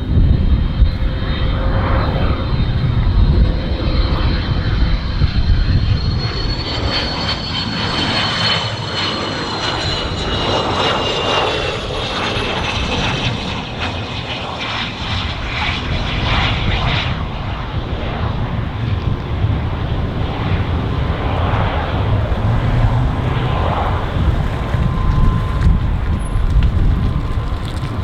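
Cessna Citation CJ1 business jet's twin turbofan engines, loud whining and rumbling as the jet passes; the whine climbs slowly in pitch, then falls and fades about halfway through while the rumble goes on.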